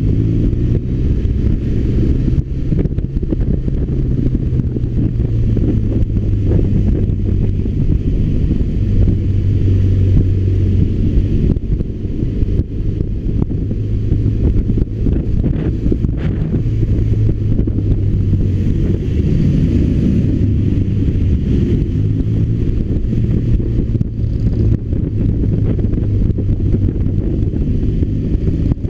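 BMW R1200RT's boxer twin engine running steadily on the move, with wind rushing over the microphone.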